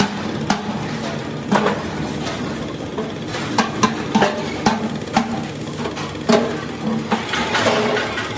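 Workshop machinery noise: a steady engine-like hum with irregular sharp metallic knocks and clanks, a few to a second.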